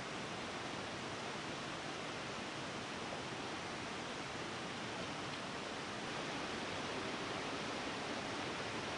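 Waterfalls rushing: a steady, even wash of falling water, a little louder from about six seconds in.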